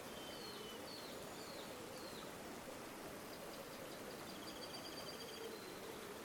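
River water flowing steadily, with small birds calling over it: a run of four short slurred whistles in the first couple of seconds, then a fast high trill from about halfway through.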